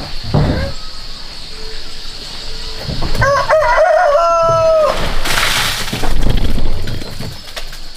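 A rooster crows once about three seconds in, a wavering start settling into a long held note. A loud burst of rustling noise follows just after.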